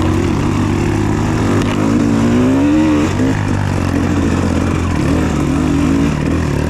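Trail dirt bike engine running, its pitch rising and falling with the throttle, highest about two to three seconds in.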